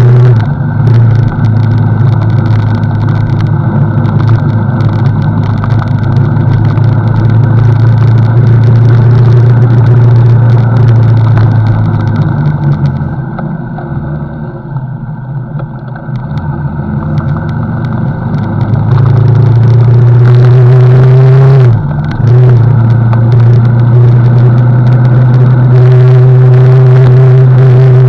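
CFMoto NK motorcycle running under way, its engine note steady under a heavy low rumble. About halfway through it eases off and goes quieter, then pulls again with a rising engine note, broken by a brief dip about 22 seconds in.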